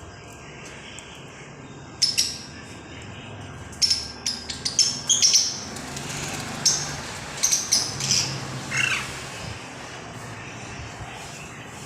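Pet green parrot giving short, sharp, high squawks: one about two seconds in, then a rapid run of them from about four to nine seconds.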